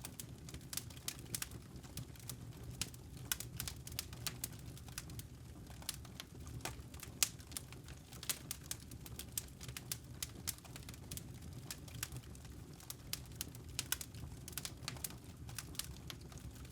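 Wood fire crackling, with frequent irregular sharp pops and snaps over a steady low rumble of burning logs.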